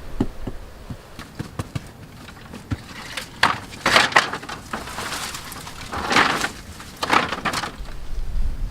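Bamboo being handled and worked by hand: several light knocks and taps, then a handful of short, rough half-second strokes.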